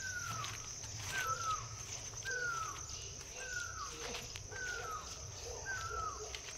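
Bird calls that locals name a koyal (cuckoo): a short falling whistle repeated about once a second, seven times in a row. Under it runs a steady high insect trill.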